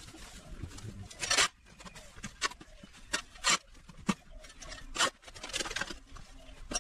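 A hand tool scraping through yard debris in irregular short strokes, one or two a second.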